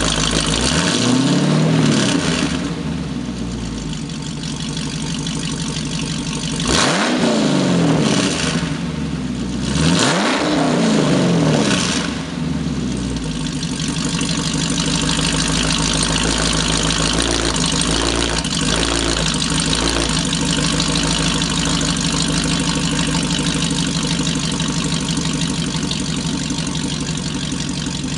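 2010 Chevrolet Camaro SS's 6.2-litre L99 V8 through a Solo Performance Mach XL stainless exhaust with J-pipes and high-flow catalytic converters, revved three times, quick rises and falls in pitch, then settling to a steady idle with a few light blips.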